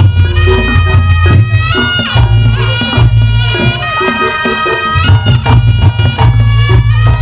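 Reog Ponorogo music: a slompret, a nasal double-reed shawm, plays loud held notes that change pitch every second or so, over drums with a heavy booming low end.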